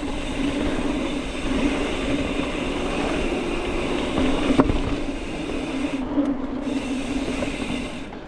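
Mountain bike rolling along a dirt trail: steady tyre and drivetrain rolling noise with a constant hum, and one sharp knock about four and a half seconds in.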